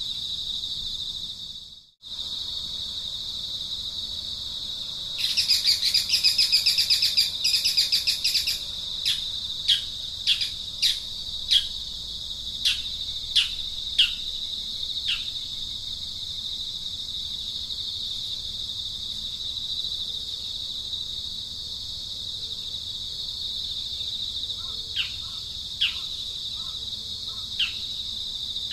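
A steady high-pitched insect drone, like crickets, carries on throughout. About five seconds in, a bird gives a loud, rapid chattering trill for about three seconds, then a string of short downward-slurred chirps follows, spaced about half a second to a second apart, with a few more near the end.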